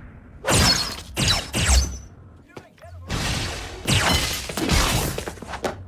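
Fight sound effects: a quick series of sharp hits and crashes, three about half a second apart, then a short lull, then a dense flurry of blows from about halfway through.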